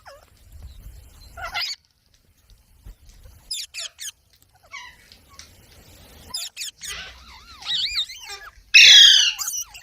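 Pet parrot calling: scattered short chirps and wavy whistled glides, then a loud harsh squawk near the end.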